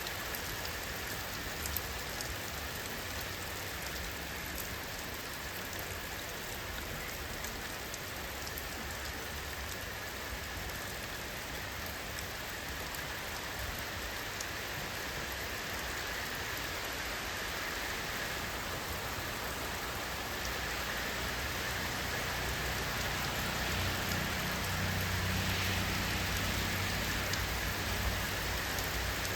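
Steady rain falling, with many small drop ticks over an even hiss; the low part of the sound grows a little fuller about two-thirds of the way through.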